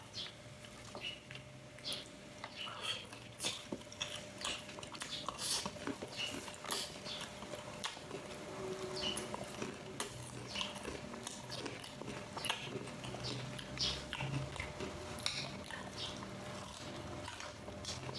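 A person chewing and biting food up close, with many small irregular clicks and crackles of mouth sounds and cutlery.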